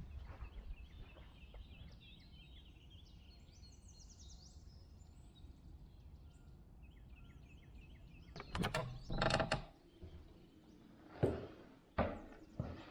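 Small songbirds singing in repeated high chirping trills over quiet outdoor ambience, then a few loud knocks and clatters in the last few seconds.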